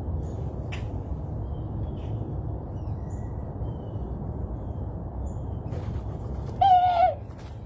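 Small birds chirping faintly and briefly over a steady low rumble, with one loud, wavering call about half a second long near the end.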